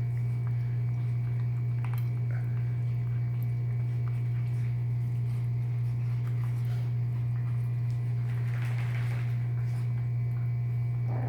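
A steady low hum, with faint small clicks and crunching from seven-week-old Chihuahua puppies chewing dry kibble and chicken.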